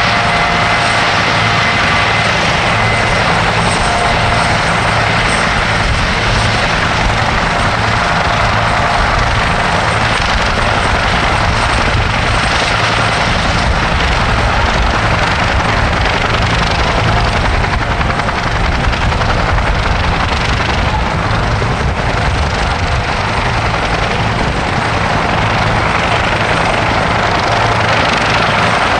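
Helicopters running steadily, turbine engines and rotors together, with a thin high turbine whine over a low steady drone.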